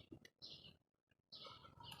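Small songbirds at a feeder giving short, repeated chirps, with a brief pause about a second in before the chirping picks up again.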